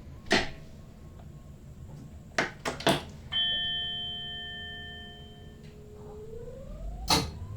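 Cab switches clicking a few times in an SLT electric train, then a single ringing chime tone that fades over about two seconds. Near the end an electric whine rises in pitch, with another click.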